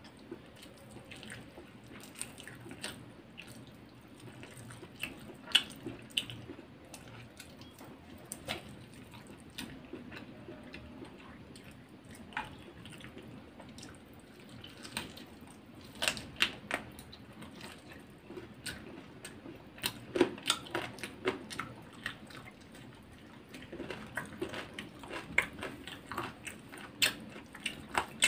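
Eating sounds: chewing, with wet lip smacks and mouth clicks coming in clusters, as chicken biryani is eaten by hand.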